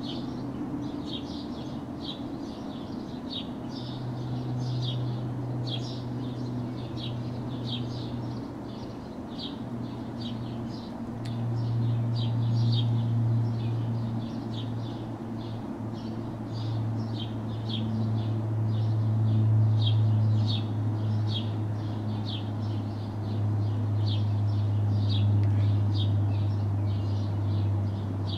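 A small bird chirping over and over, about two short chirps a second, above a low mechanical hum that swells and fades.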